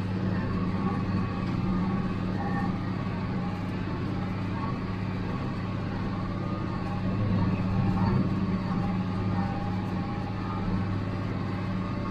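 International Harvester 886 tractor's D360 six-cylinder diesel running steadily under load, driving a John Deere 348 square baler packing hay.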